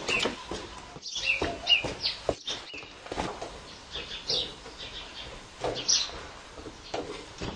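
Small birds chirping in short, high, repeated calls, mixed with scattered footsteps on stone paving.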